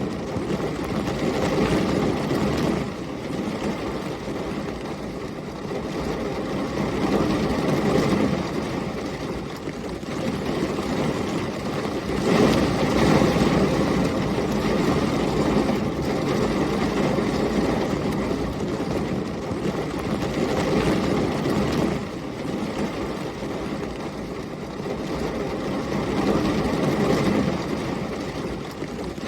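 Heavy rain with storm wind, a dense rushing noise that swells and eases in gusts every few seconds, with the strongest surge about twelve seconds in.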